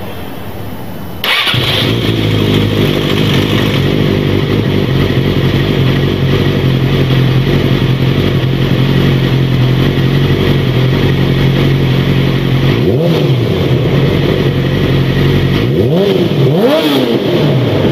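Motorcycle engine sound cutting in suddenly about a second in and running steadily, then revving up and down a few times near the end.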